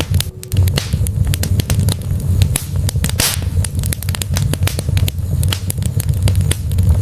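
Wood logs burning in a fireplace, crackling and popping many times a second over a steady low rumble of the flames, with a brief hiss about three seconds in.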